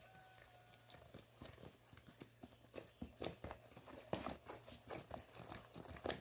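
Spoon stirring a thick corn-flake-flour cake batter in a bowl: faint, irregular clicks and scrapes of the spoon against the bowl, a little louder from about three seconds in.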